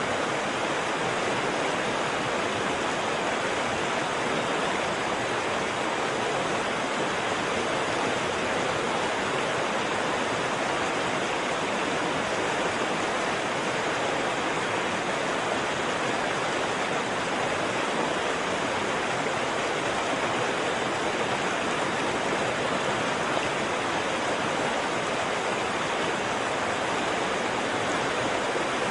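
Waterfall: water falling and rushing, a steady, even hiss without breaks.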